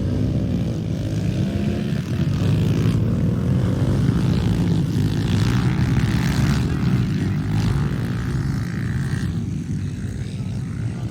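Small pit bike engine running continuously, its revs rising and falling slightly.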